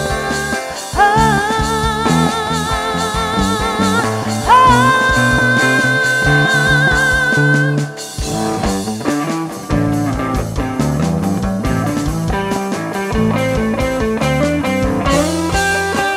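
Instrumental break of a small band's song, played on guitar. Through the first half a held melody line wavers with vibrato; after that come busier, shorter plucked notes.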